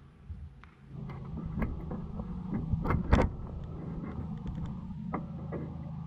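A vehicle engine running steadily, coming in about a second in. Over it come several metal knocks and clicks from bolt hardware being handled on a steel truck roof rack, the loudest about three seconds in.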